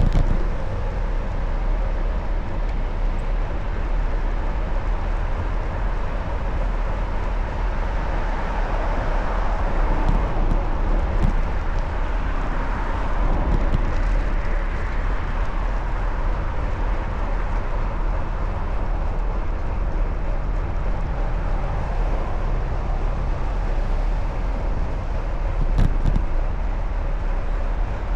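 Steady wind rumble on the microphone and road noise while riding a bicycle along city streets, with a swell of traffic noise partway through.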